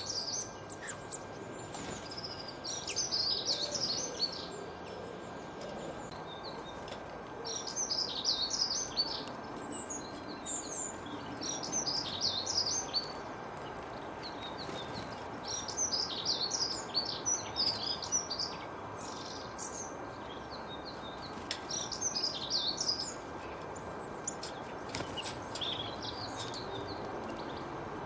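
Songbirds singing, short clusters of quick high chirping phrases every few seconds, over a steady even background rush and a faint steady high tone.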